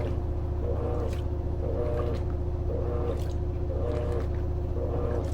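Electrolux LT13B top-load washing machine agitating a load of sheets and towels, water swishing in a regular pulse about once a second over a steady motor hum.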